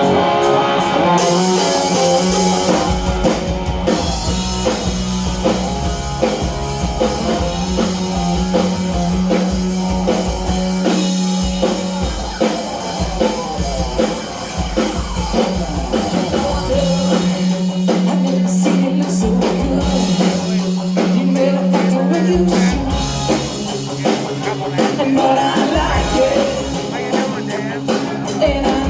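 Live rock band playing a song on drum kit and electric guitars.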